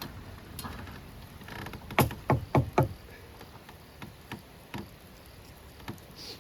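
Four loud, quick knocks in a row, each a little over a quarter second apart, followed by a few fainter clicks.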